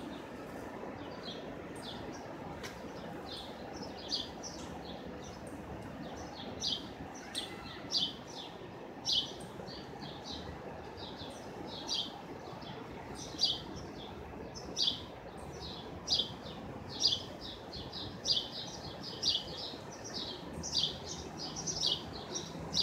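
Small birds chirping, many short high chirps coming irregularly and growing busier later on, over a steady low city background hum.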